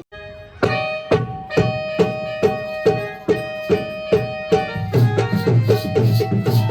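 Konkani folk dance music: a hand drum beats about two strokes a second under held keyboard notes, and the drumming gets busier about five seconds in.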